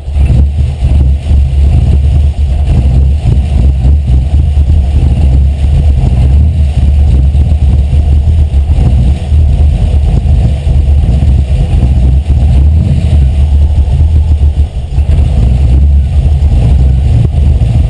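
Carbureted 5.0 V8 in a Miata catching and running loudly with a low, uneven pulse, freshly started with a squirt of fuel into the carburettor. The level dips briefly about fifteen seconds in, then picks up again.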